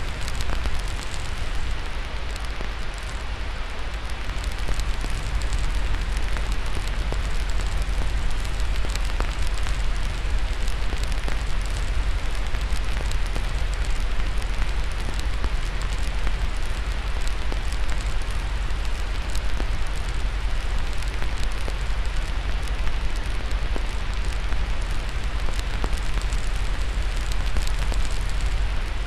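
Steady white noise with a wood fire crackling through it: many small, sharp pops and ticks over an even hiss, with a deep rumble underneath.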